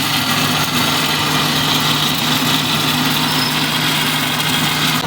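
A motor or engine running steadily with a constant hum and a high hiss, cutting off abruptly at the end.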